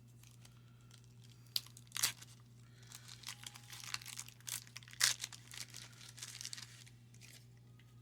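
Wax-paper wrapper of a 1990 Fleer baseball card pack being torn open and crinkled: a string of sharp crackles and rips from about a second and a half in until near the end.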